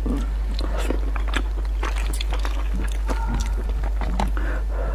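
Close-miked wet chewing and biting, with many short moist clicks and smacks, as a cooked goat's head and its eyeball are eaten and pulled apart by hand. A steady low hum runs underneath.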